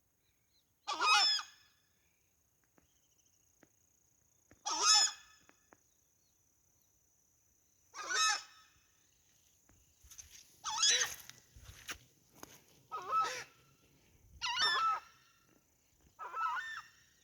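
A large bird giving loud honking calls, about seven in all, each about a second long. They come a few seconds apart at first and closer together in the second half.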